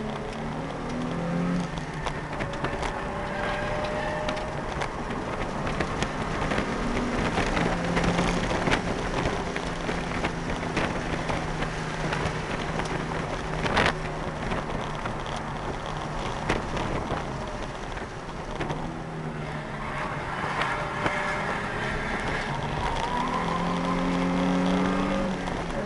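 Nissan 350Z's V6 engine heard from inside the cabin under hard driving, its note rising and falling repeatedly as it revs up and shifts, over steady road and wind noise with many small clicks. A single sharp knock stands out about halfway through.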